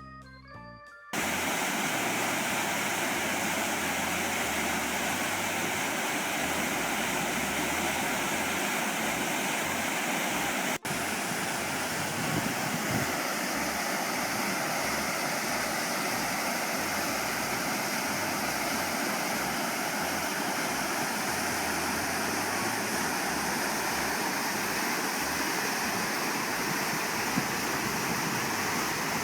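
A river running high with floodwater after a typhoon: a steady, loud rush of water, with a brief break about eleven seconds in. Music ends about a second in.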